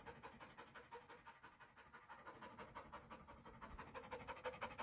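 Faint, rapid panting, about seven breaths a second, growing slightly louder near the end.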